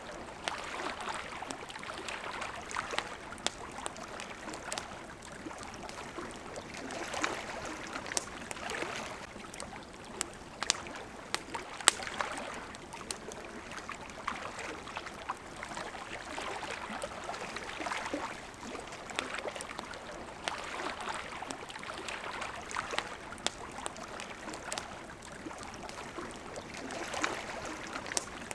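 Small waves lapping at a shore in soft swells every two or three seconds, with the sharp pops and crackles of a wood campfire scattered through them. One crackle about halfway through is louder than the rest.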